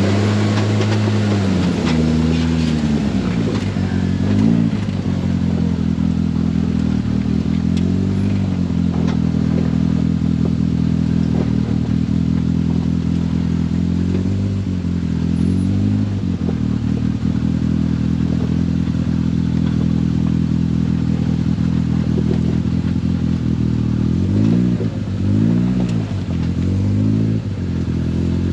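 Polaris RZR Pro R side-by-side's four-cylinder engine running while driving a trail. It holds a fairly steady speed, with several short throttle lifts and re-accelerations; the sharpest dips and pick-ups come a few seconds before the end.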